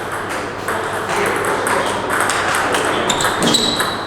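Table tennis rally: the plastic ball clicking off the bats and bouncing on the table in quick, irregular succession.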